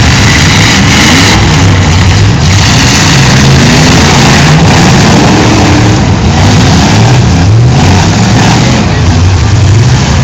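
Several demolition derby cars' engines revving up and down at once, their pitches rising and falling over one another, loud throughout.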